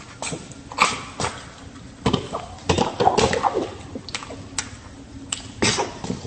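Irregular knocks, taps and thuds, about eight across a few seconds, with a brief voice-like sound about three seconds in.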